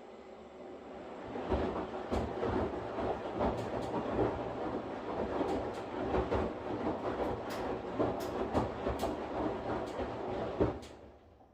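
Washing machine running with a steady hum, then several seconds of irregular clattering knocks and clicks, which stop with a sharp click near the end.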